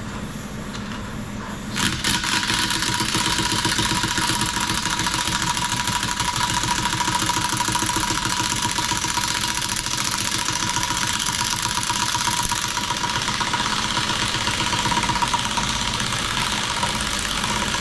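Torch flame burning steadily while heating a seized exhaust manifold bolt in a cast iron cylinder head. It steps up sharply to a loud, even hiss with a thin steady whistle about two seconds in.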